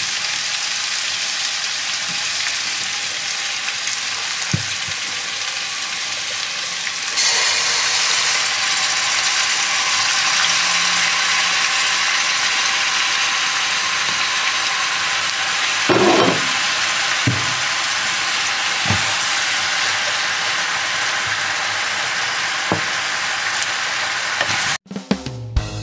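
Pork and bamboo shoots sizzling in a wok while being stir-fried with a wooden spatula, with a few knocks of the spatula against the pan. About seven seconds in the sizzle gets louder as fresh spinach leaves go into the hot pan. Background music starts just before the end.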